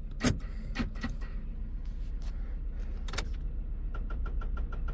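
Inside a GMC pickup's cab with a dead battery on jumper cables: a few scattered clicks as the key and controls are worked, then from about four seconds in a fast electronic ticking chime from the dash, about nine ticks a second. The battery is too far gone for the jump to turn the engine over, so all it gets is the chime.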